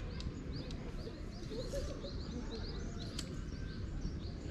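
Small birds chirping in a fast, steady run of short high notes, over a low rumble, with a few sharp clicks.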